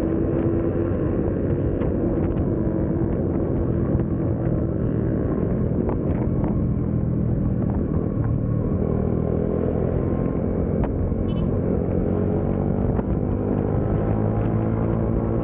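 Yamaha Sniper 155R's single-cylinder engine running steadily, with faint scattered ticks over the engine note.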